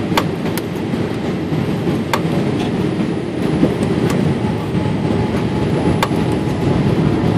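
Steady low rumble of a Boeing 787-8 heard from inside the passenger cabin, with a few sharp clicks or knocks scattered through it.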